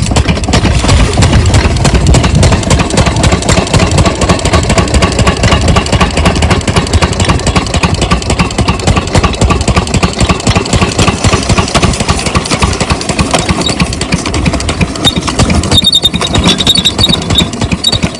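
12 hp diesel engine of an irrigation water pump set running steadily, with a rapid, even firing beat; its low rumble eases somewhat about halfway through.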